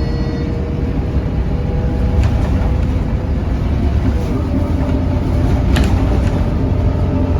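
Scania K230UB bus's diesel engine and ZF automatic gearbox running under way: a heavy low rumble with a whine that sags slowly, then steps up in pitch about four and a half seconds in, as at a gear change. Two sharp rattles, at about two and about six seconds in.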